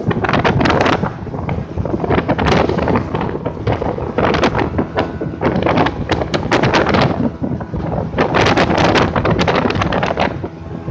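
Wind buffeting the microphone on a motorboat under way, loud irregular crackling gusts over the steady rumble of the boat's engine.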